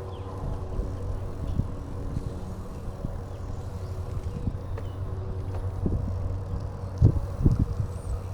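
Bicycle rolling along a path: steady low tyre rumble with wind buffeting the microphone, and a few sharp bumps about seven seconds in.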